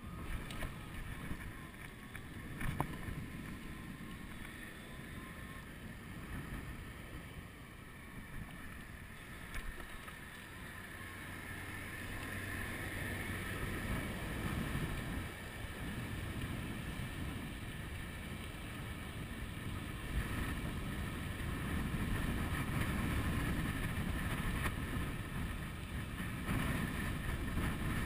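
Wind buffeting a chest-mounted GoPro's microphone during an electric-bike ride, a steady low rumbling rush that grows louder about halfway through and again near the end.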